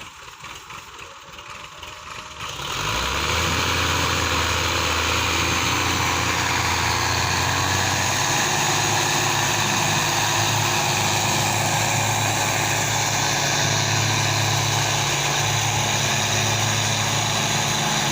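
Tractor diesel engine running steadily, loud from about three seconds in after a quieter start.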